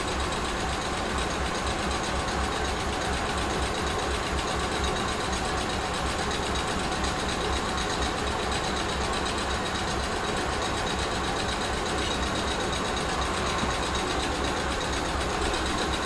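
South Western Railway passenger train running, a steady rapid mechanical clatter that holds an even level throughout.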